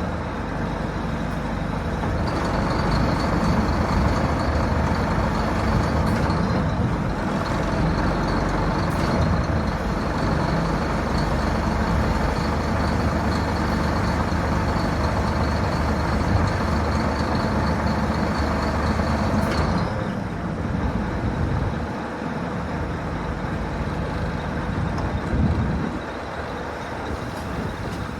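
Scania 8x4 tipper truck's diesel engine running steadily, with a thin high whine over it from about two seconds in. About twenty seconds in, the whine stops and the engine settles to a quieter, lower run.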